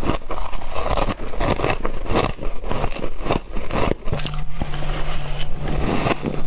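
Close-up crunching of frost being bitten and chewed, a rapid irregular run of crisp crunches. A low steady hum comes in about four seconds in.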